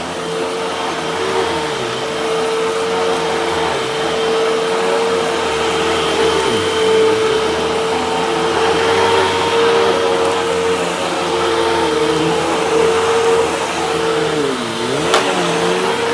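Hoover vacuum cleaner running with a steady motor whine over a rushing hiss. Lower tones waver and dip as the suction changes, and there is one sharp click near the end. The machine is pulling dirt into its canister as it should.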